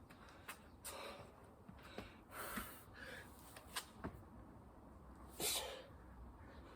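A person exercising, breathing hard in several short, forceful exhales, with scattered sharp knocks and taps between them.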